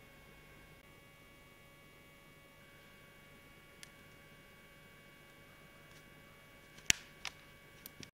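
Faint steady electrical hum with a few sharp clicks, the loudest just before seven seconds in and more near the end.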